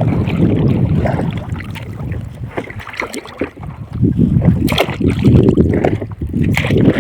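Wind buffeting the phone's microphone, a low, uneven rumble, with a sharp knock a little under five seconds in.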